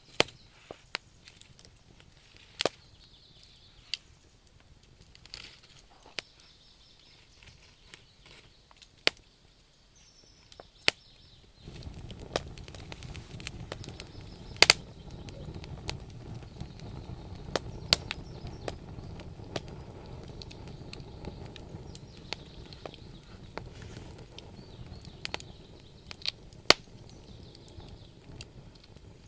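Wood campfire crackling, with sharp irregular pops and snaps. A low steady rumble of burning joins in suddenly partway through.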